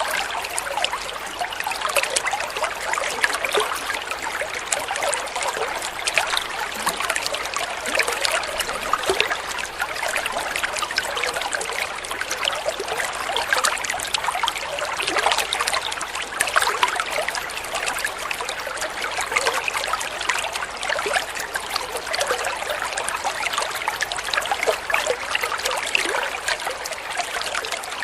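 Flowing water trickling and splashing steadily, a dense patter of small splashes that stays even throughout.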